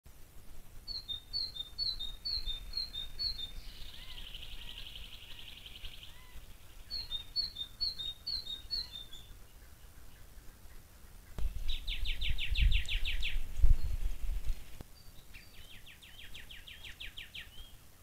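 Bird calls: two runs of short repeated high chirps, the first followed by a buzzy trill, then two fast rattling trills in the second half. A low rumble rises partway through and is the loudest moment.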